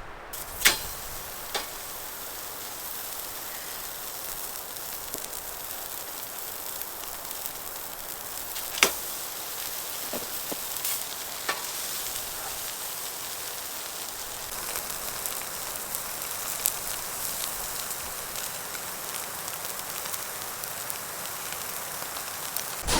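Food frying in a pan: a steady sizzle with a few sharp pops, the loudest about a second in and again near the middle.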